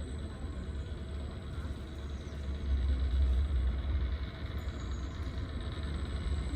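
Passenger train rumbling low, growing louder about two and a half seconds in.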